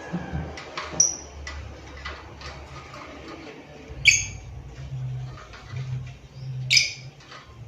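Lovebird giving short, shrill chirps: three loud ones about a second, four seconds and seven seconds in, with fainter ticks between them. A low hum comes and goes underneath.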